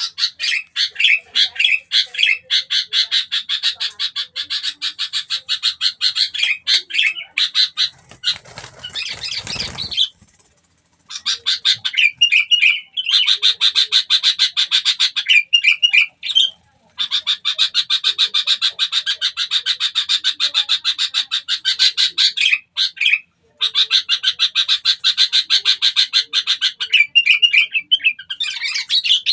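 A bird calls in long runs of rapid, evenly repeated chattering notes, broken by short pauses. A brief rustling burst comes about eight seconds in.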